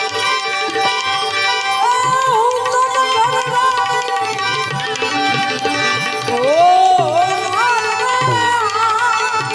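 Gujarati folk devotional music: tabla drumming under steady held notes, with a melodic line that slides and wavers over them from about two seconds in.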